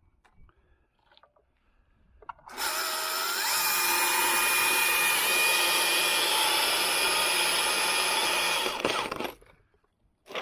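Gas chainsaw revving up to full throttle about two and a half seconds in and running at high, steady revs while cutting through a limb. The engine drops off suddenly about nine seconds in as the cut finishes.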